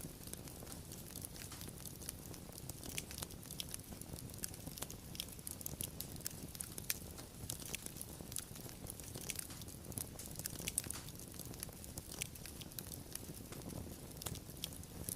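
Fire crackling: many small irregular snaps and pops over a low, steady rush.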